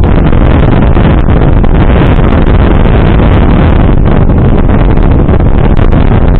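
Wind buffeting the microphone of an Akaso EK7000 action camera sealed in its weatherproof case on a motorcycle helmet at riding speed, with no wind protection: a very loud, steady, deep rushing rumble that smothers everything else.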